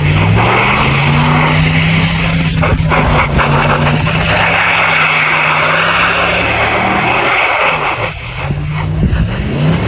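Ram 1500 pickup truck driving, its engine pitch rising and falling with the revs over a steady rushing road noise; the revs drop about eight seconds in and climb again near the end.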